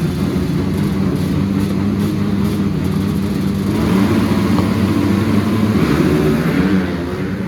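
Dirt bike engines running and revving out on a motocross track, swelling louder about four seconds in and fading near the end.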